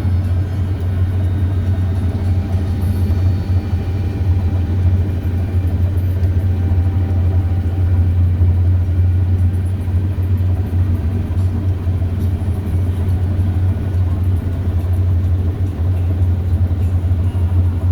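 Heavy harvest machinery's engine droning steadily with a strong low hum and faint steady whines above it, unchanging throughout.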